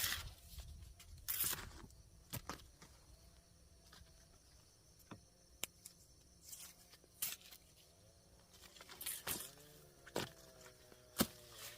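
Faint rustling and scattered sharp clicks and knocks as frog-catchers move and handle things in wet vegetation, with a faint wavering call in the background.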